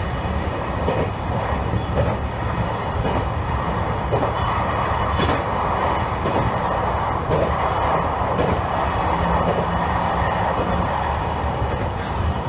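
Electric train running along the track, heard from inside the front car: a steady rumble of wheels on rail with a motor hum and occasional faint clicks from the rails.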